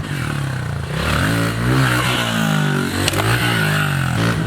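Pit bike engine revving, its pitch rising and falling several times as the throttle is worked, with a sharp click about three seconds in.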